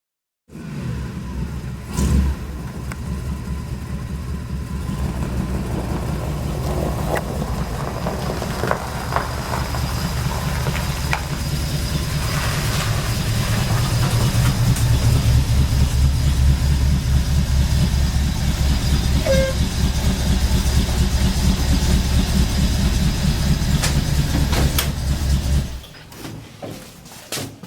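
1966 Ford F100 pickup's engine running with a rough, low pulsing, growing a little louder through the middle and stopping abruptly near the end. A sharp knock sounds about two seconds in.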